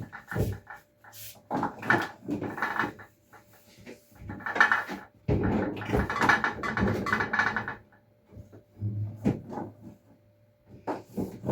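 Knocks and clatter of kitchen items being handled and set down, in bursts, with a faint steady hum.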